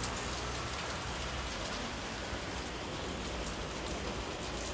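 Heavy rain falling steadily on a street and nearby surfaces, an even hiss with faint scattered drop ticks.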